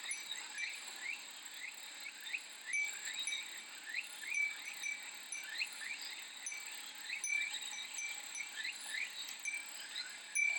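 Japanese glass wind chime (fūrin) tinkling again and again over a steady, high cicada drone, with many short rising chirps throughout.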